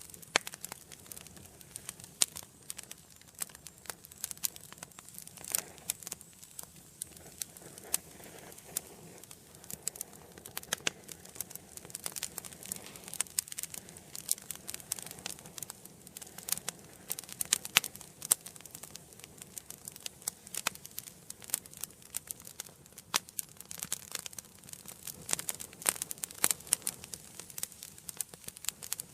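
Wood fire burning in a fireplace, crackling and popping: many sharp, irregular pops over a soft hiss of flame.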